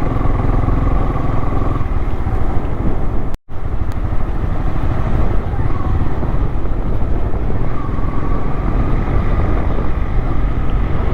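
Motorcycle riding along, its engine running under a heavy, steady rumble of wind on the microphone. The sound cuts out for a split second about three and a half seconds in.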